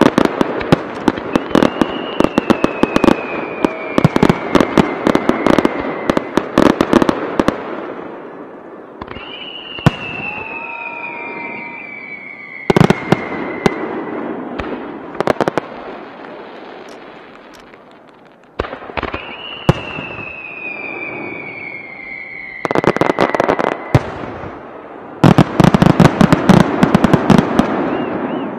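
Starmine fireworks barrage: a rapid run of sharp bangs and crackle, then three long whistles sliding down in pitch, single heavy shell bursts, and a dense volley of bangs near the end.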